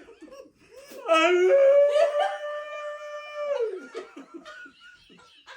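A long howl that starts low, jumps up in pitch and holds one steady note for about two seconds before sliding down, with laughter around it.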